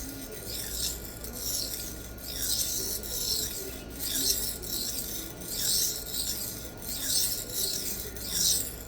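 Steel knife blade stroked back and forth across a Sharpal diamond sharpening plate, a steady run of rasping scrapes at about one stroke every two-thirds of a second: light passes to knock back the burr raised on the edge.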